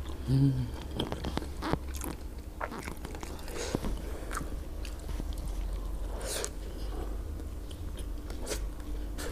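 Close-miked mukbang eating sounds: a person chewing a mouthful of grilled fish and rice, with scattered small wet mouth clicks and smacks. A brief vocal sound comes just after the start.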